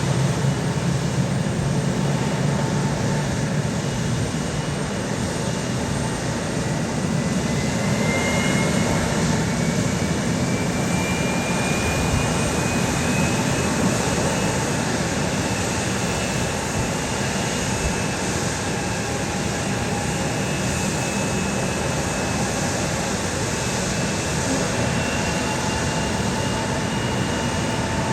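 Jet airliner engines running with a steady roar, and a high turbine whine that rises in pitch partway through, then holds.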